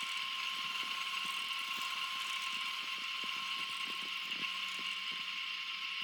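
Steady high-pitched whine of a running machine, most likely a power tool or workshop motor, with faint irregular ticks through it.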